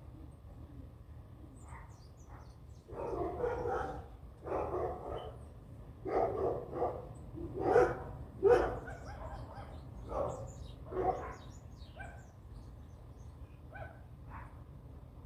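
A dog barking about eight times in uneven bursts between roughly three and eleven seconds in, with faint high chirps of small birds scattered throughout.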